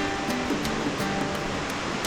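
Background music with plucked strings, likely ukulele, over a steady rush of flowing water.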